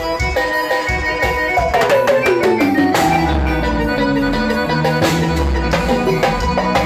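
Band music with a drum kit keeping a steady beat under sustained keyboard or accordion chords and guitar. About two seconds in, one instrument slides downward in pitch.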